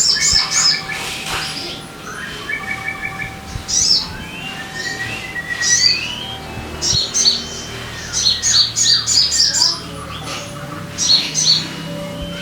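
Sogon bird song played as a lure: bursts of rapid high chirps and trills alternate with long, plain whistled notes and short rising and falling slurred calls, over a faint low hum.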